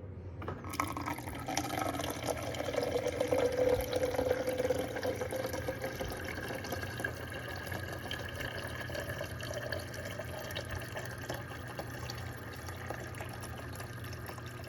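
Water running or being poured, starting just under a second in, with a faint tone that slides down in pitch over the first few seconds.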